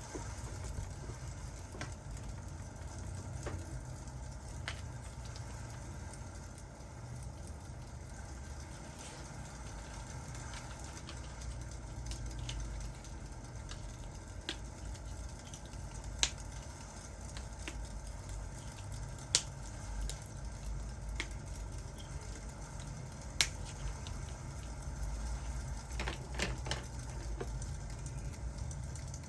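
Crackling wood fire: a steady low rumble with scattered sharp pops and snaps, a few louder single pops and a cluster of crackles near the end.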